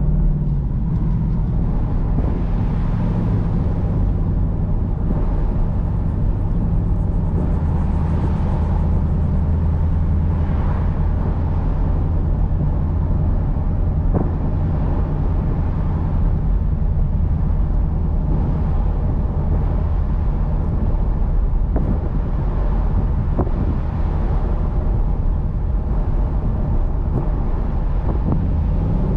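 Ford Mustang GT's 5.0 L V8 cruising at low revs in a high gear, with wind and road noise. The engine note drops in the first few seconds as the 10-speed automatic shifts up, then holds steady.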